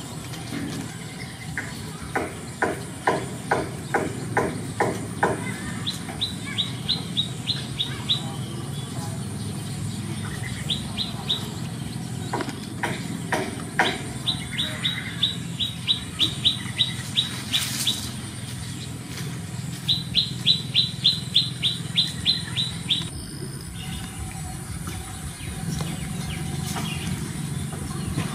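A bird chirping in several quick runs of short high notes, about five notes a second, over a steady low hum. A few seconds in, a run of louder, lower sharp sounds comes about three a second.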